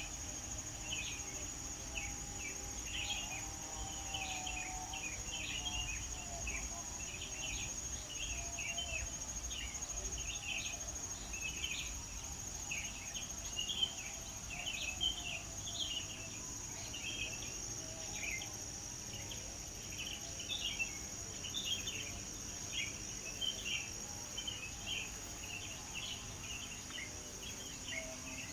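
Many small birds chirping and twittering in quick, short calls, over a steady high-pitched insect trill.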